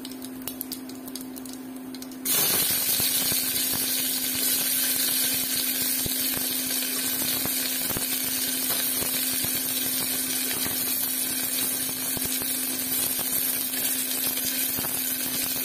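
Cumin seeds crackling lightly in hot oil in a pressure cooker. About two seconds in, chopped onions go into the oil and it breaks into a loud, steady sizzle.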